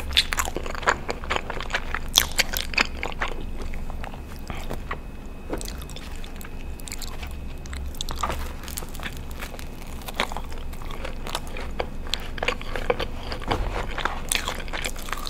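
Close-miked eating sounds: chewing a mouthful of cheesy Alfredo pasta, then biting into a soft garlic breadstick and chewing it. The sound is made of many short mouth clicks, thinner in the middle and thicker again after about eight seconds.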